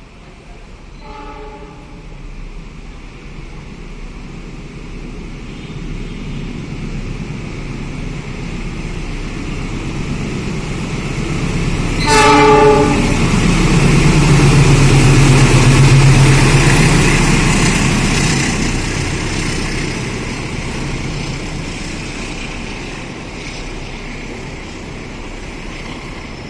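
A train approaching and passing, its locomotive sounding a faint short horn about a second in and a louder short horn blast near the middle. The running noise builds to a peak just after the second horn, then fades as the train moves away.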